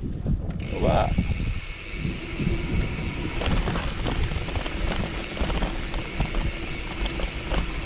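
Wind rushing over the microphone of a mountain bike's camera while riding a packed-dirt trail, with the knobby tyres crunching over the dirt and the bike giving off many small clicks and rattles over the bumps.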